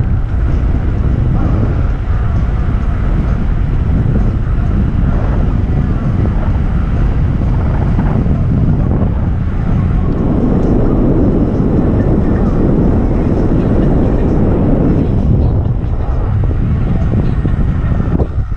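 Loud, steady rumbling noise from riding an electric skateboard on a trail: wind buffeting the microphone mixed with the wheels rolling over the rough surface, growing heavier partway through.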